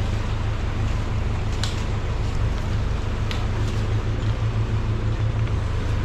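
Strong wind buffeting the microphone: a continuous, fluttering low rumble with a few sharp clicks.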